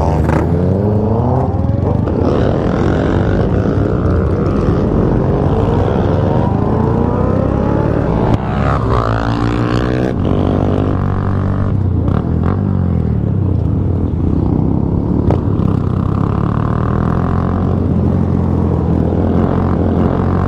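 Several motorcycle engines running close by, with a steady low drone and repeated revving that rises and falls in pitch.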